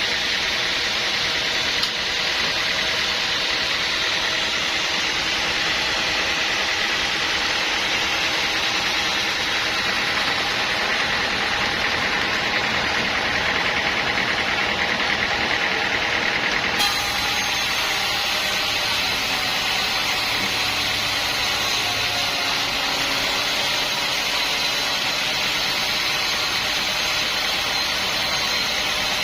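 Sawmill machinery running steadily, a loud engine-like drone with a high whine. About 17 seconds in the sound changes abruptly.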